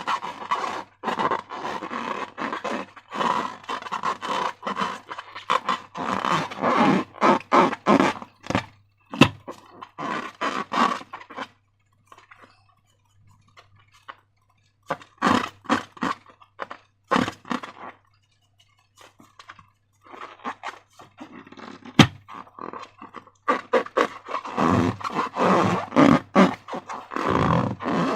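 Slime being squeezed and worked by hand, making wet squelching and crackling sounds in irregular bursts, with two short pauses and one sharp click about two-thirds of the way through. A faint low hum runs underneath.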